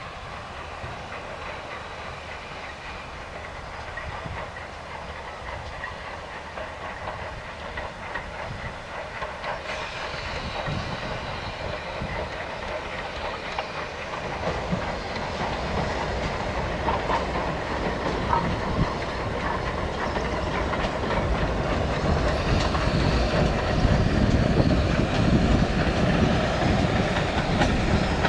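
Steam train approaching and growing steadily louder, its wheels clattering over the rail joints with some hiss of steam.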